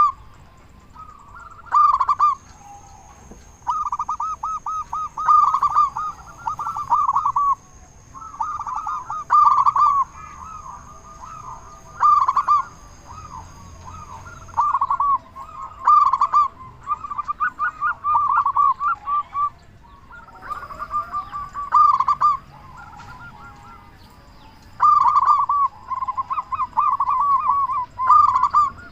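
Local zebra dove (perkutut) singing its rapid rolling coo phrases near 1 kHz, burst after burst, with short gaps between phrases.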